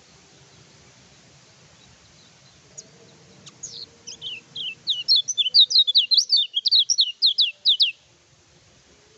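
Kecial kuning, a white-eye songbird, singing a fast run of high, sharply down-slurred notes. The notes start sparse about three seconds in, then come thick and loud, several a second, and the song stops abruptly near the end.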